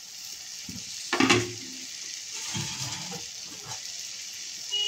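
Onions, spice masala and freshly added chopped tomatoes sizzling in oil in a frying pan, a steady hiss. A short knock sounds about a second in.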